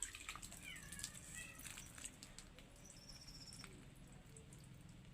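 A small songbird giving a few short gliding calls, then a brief high thin note, among scattered light clicks and splashes of water as it bathes.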